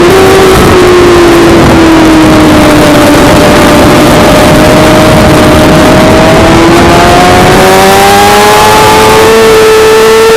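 Suzuki GSX-R600 inline-four racing engine running at high revs under way, loud over a steady rushing noise. Its pitch sinks slowly through the first few seconds, holds, then climbs again smoothly without a gear-change break.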